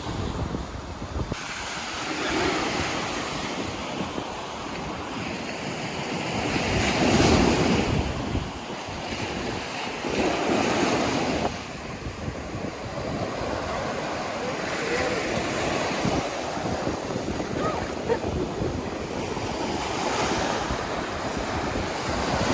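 Ocean surf breaking and washing in, in swells, the loudest about seven seconds in, with wind buffeting the microphone.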